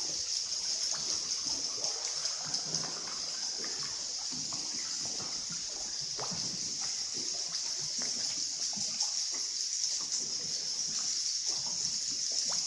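Water splashing and trickling inside a river cave: scattered small splashes and drips over a steady high hiss.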